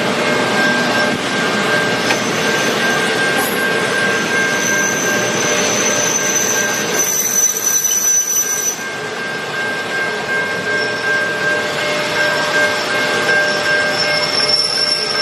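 Diesel locomotive-hauled train rolling slowly, engines running with a continuous rumble and high-pitched wheel squeal from the rails that comes and goes.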